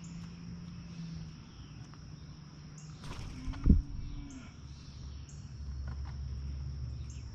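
Steady high-pitched insect chorus, crickets or similar, with a few faint short bird chirps and one sudden loud thump a little over halfway through.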